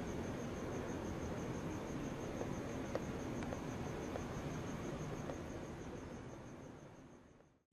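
Crickets chirping in a steady, evenly pulsing high trill over a low background hiss, fading out near the end.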